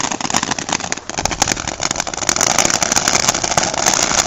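A ground firework spraying and crackling: a continuous hiss packed with rapid, irregular pops, which dips briefly about a second in and then grows louder about two seconds in.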